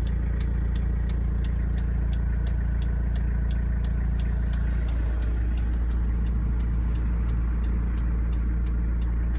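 Car engine running, heard from inside the cabin as a steady low hum, with a fast, even ticking about three times a second.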